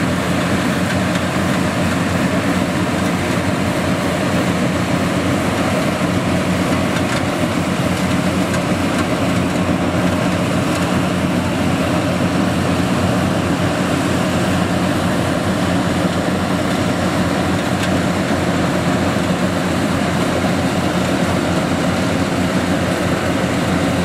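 Yanmar YH700 rice combine harvester running with a steady, unchanging drone.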